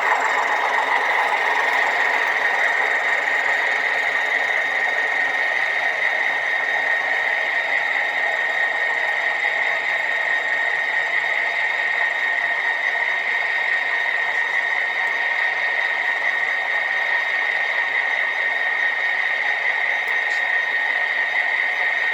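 HO scale model train running on the layout track: a steady high-pitched whine over a constant mechanical running noise.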